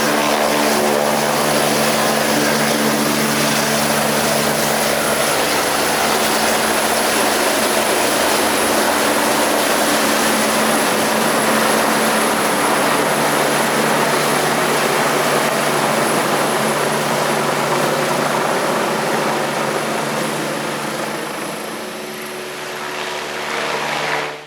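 Eurocopter EC145 twin-turbine helicopter (two Turbomeca Arriel turboshafts) at full power on take-off: loud rotor and turbine noise with a steady hum under it. It fades after about 18 seconds as it draws away, swells briefly again, then cuts off.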